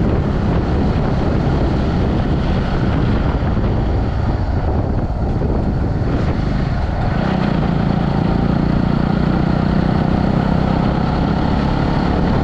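Motorcycle under way, its engine running steadily with road noise; the engine's hum grows stronger about seven seconds in.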